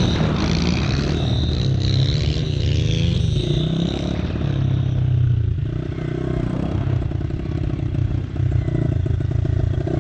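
Yamaha TT-R110 pit bike's small four-stroke single engine running, its revs rising and falling unevenly around two to four seconds in, then holding at a steadier running pitch.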